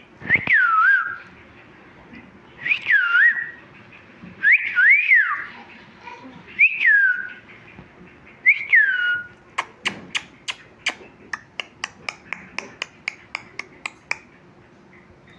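Pet parrot whistling five swooping notes, each rising then falling, about two seconds apart, followed by a fast run of sharp clicks, about four or five a second.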